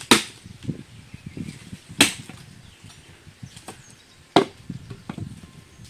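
Firewood being chopped with a blade: three hard chops about two seconds apart, with lighter knocks and rustling of wood between them.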